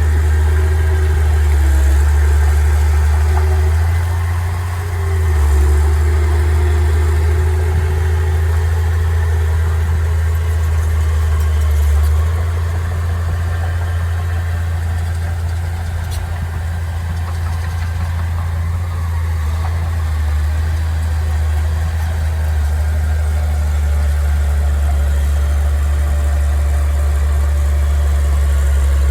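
Diesel engine of heavy earthmoving machinery running steadily at a low, even speed, easing off briefly about four to five seconds in.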